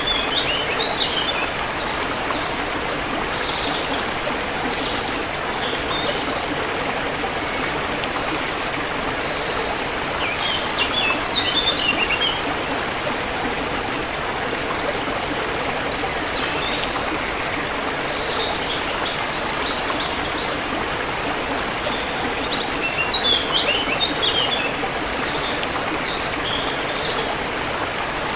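A forest stream flowing steadily, with small birds chirping over it in short bursts, busiest about eleven seconds in and again near twenty-three seconds.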